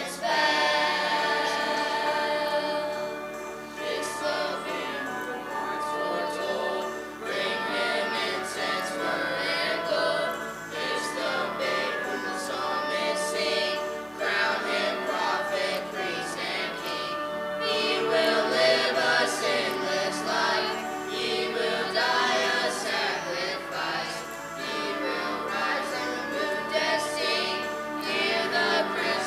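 A choir singing a Christmas song.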